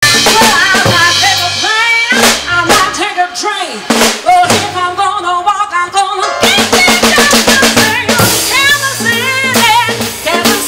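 Live band music with a drum kit, snare rimshots and bass drum, a bass line and a melody line on top.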